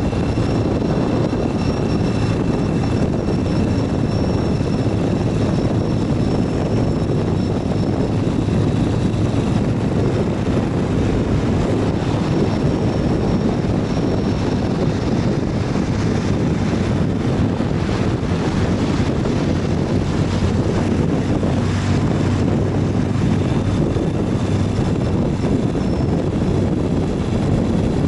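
Ural 750 motorcycle's flat-twin engine running steadily under way, mixed with steady wind rush.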